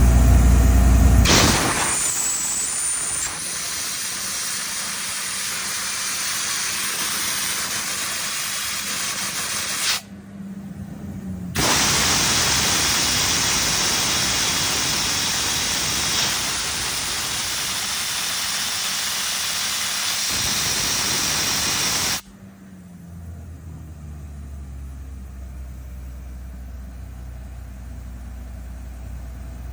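Ingersoll Rand HP750 towable air compressor blowing off compressed air in a loud, steady hiss that begins about a second in. The hiss stops for a second or two, then resumes. About two-thirds of the way through it cuts off suddenly, leaving the compressor's engine running with a hum whose pitch falls and settles.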